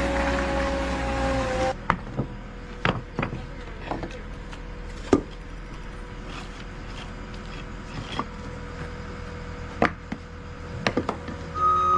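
Heavy equipment engine running low and steady while broken concrete clanks and knocks sharply every second or so as rubble is scooped. A reversing beeper starts near the end.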